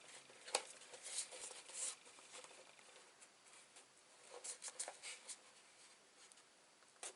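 Faint scattered rustles and scrapes of cardstock being bent and squeezed by hand, with a few light clicks.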